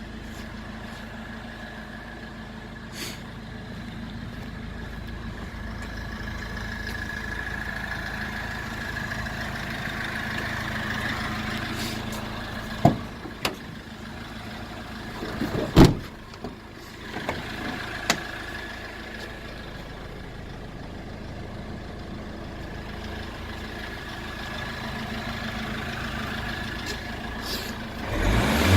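Iveco Daily 35C12D's four-cylinder turbodiesel idling steadily. A few sharp knocks or clunks come around the middle.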